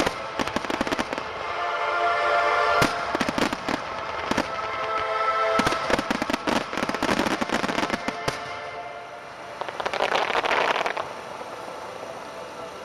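Aerial fireworks bursting and crackling in quick succession over music played for the show. The bursts thin out after about eight seconds, followed by a short spell of dense hiss around ten seconds while the music goes on.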